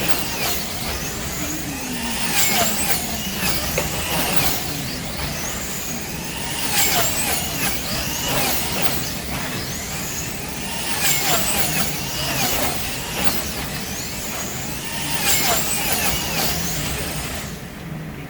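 Wing-class slot cars running laps during a race. Their small electric motors whine in rising and falling sweeps, louder each time a car passes, every few seconds.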